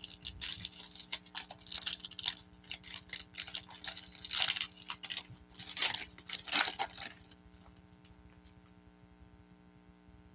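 Plastic-foil trading card pack wrapper crinkling and tearing as it is opened, in quick crackly bursts that stop about seven seconds in, leaving only a faint electrical hum.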